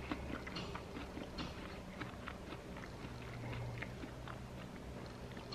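A person chewing a bite of small pear close to the microphone: soft, irregular crunches and wet clicks.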